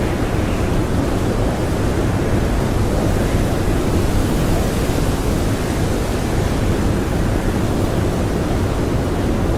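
Strong blizzard wind blowing steadily, a dense even rush heaviest in the low end, with no separate gusts or whistling tones.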